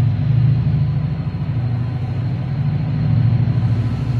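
A train passing slowly: the steady low drone of a Class 68 diesel locomotive's engine under power, with the rumble of TransPennine Express Mark 5A coaches rolling along the track.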